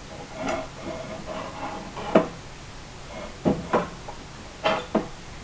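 Panel-mounting clamp being slid along a solar panel rack rail and knocked into place: a scrape early on, a sharp knock about two seconds in, then two pairs of clicks and knocks.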